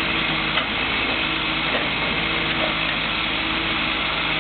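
Heavy diesel engines of street-digging machinery (backhoe and dump truck) running steadily with an even hum, with one small click about half a second in.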